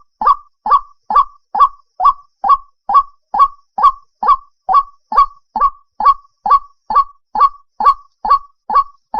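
White-breasted waterhen call: one short, harsh note repeated over and over at a steady, even pace of about two a second. It is a recorded call played as a lure for night bird trapping.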